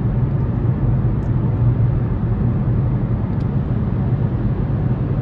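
Steady drone of a car driving, with road and engine noise and a low hum heard inside the cabin.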